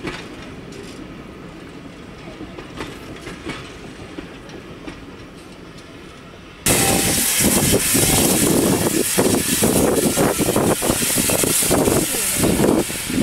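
Teak-bodied railway coaches rolling past, their wheels clicking over the rail joints as the sound slowly fades. About halfway through, a sudden change to a steam locomotive standing at a platform, with loud hissing of escaping steam.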